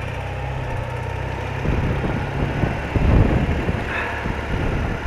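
BMW R80RT's air-cooled flat-twin engine running steadily at low revs, then turning rougher and louder from a little under two seconds in.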